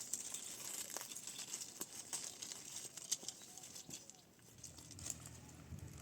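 Rustling and crackling with many scattered small clicks, like dry material being handled or crumpled.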